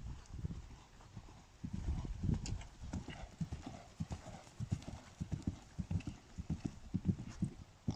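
A horse's hoofbeats: a steady run of dull thuds as it moves through a show-jumping course.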